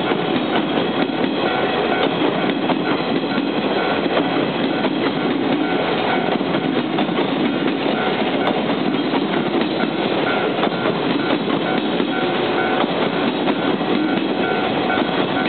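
JR West 583 series sleeper electric train passing close by, a steady rumble of wheels running on the rails with a fast run of clicks over the joints. A faint steady whine sits above the wheel noise.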